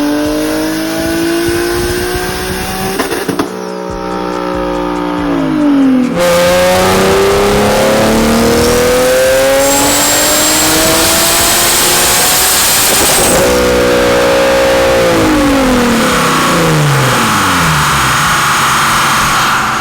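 Turbocharged Nissan 370Z V6 on a chassis dyno doing full-throttle pulls. The engine pitch climbs, drops back, then climbs steadily for several seconds before the revs fall away.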